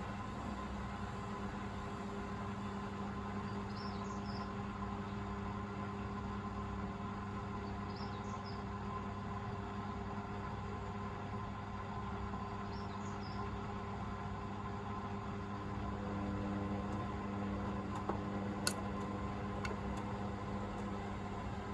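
Hoover VisionDynamic front-loading washing machine running steadily in the drain phase before its final 1000 rpm spin, its motor and drain pump giving a constant hum. About two-thirds of the way through the hum grows slightly louder and changes tone, and a single sharp click follows a couple of seconds later.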